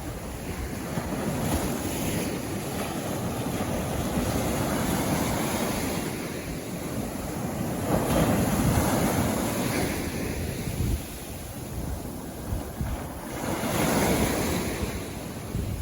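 Sea waves breaking and washing up the beach in a continuous surf, with louder surges of breaking surf about eight seconds in and again near the end.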